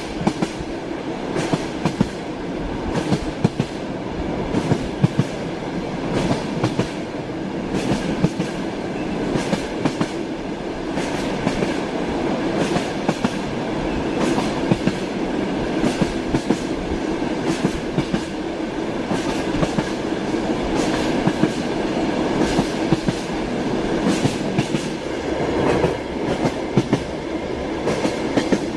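Train running along the track: a steady rumble with the clickety-clack of wheels knocking over rail joints, the knocks coming a few times a second.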